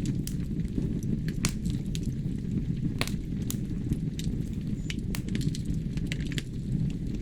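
Wood fire burning in a fireplace: a steady low rumble of flames with irregular sharp crackles and pops from the burning logs, a louder pop about three seconds in.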